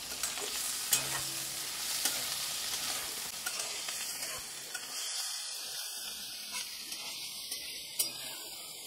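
Dried baby shrimp, onion and tomato sizzling steadily in a steel kadhai while a metal spatula stirs and scrapes through them, with occasional sharp clicks of the spatula against the pan.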